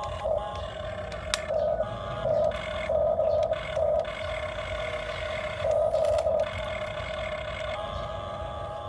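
Excavator running with a steady mechanical whine that swells louder in several short stretches of half a second to a second, as the machine strains under load.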